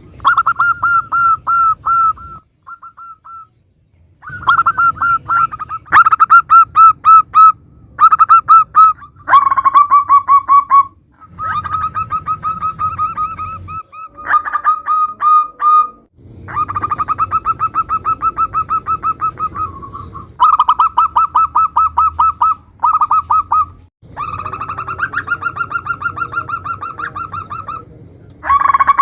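Zebra doves (perkutut) cooing: phrase after phrase of fast, rattling pulsed notes, each phrase a second or two long, with short pauses between.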